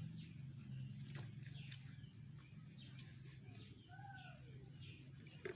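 Birds chirping: many short, quick falling chirps and a couple of arched calls about four seconds in, over a faint steady low hum.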